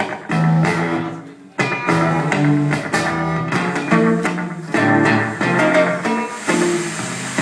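Live music played on guitar: plucked notes in short, choppy phrases that stop briefly and come back in loudly about a second and a half in.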